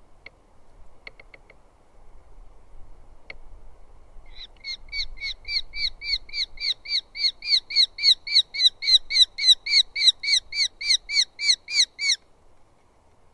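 Eurasian hobby calling: a few short calls, then a fast run of sharp repeated calls, about four a second, that grows louder and stops abruptly about a second before the end.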